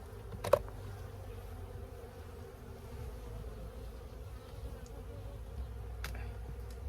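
A large honeybee colony buzzing, a dense steady hum of many bees. A sharp click comes about half a second in.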